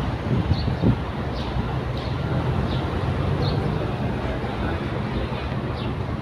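An engine running steadily, a low hum under outdoor background noise.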